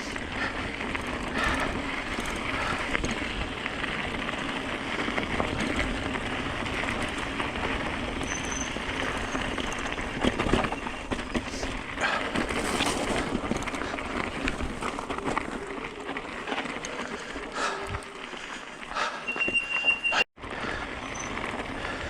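Mountain e-bike rolling down a rocky trail: tyres and bike rattling and clattering over stones, with a brief high brake squeal near the end.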